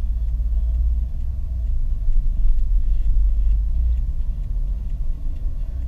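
Car driving along a city road: steady low rumble of engine and tyres, rising a little about two seconds in.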